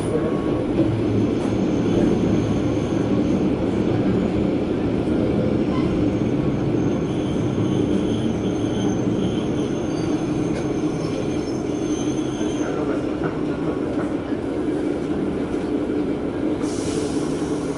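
KiHa 120 diesel railcar running along the line, heard from inside: a steady low rumble of the engine and the wheels on the rails. A thin high wheel squeal runs from about a second in until about twelve seconds in, then fades.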